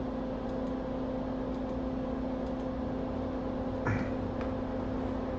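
Bench fume-extractor fan running with a steady hum, with a few faint light clicks and one sharper click about four seconds in.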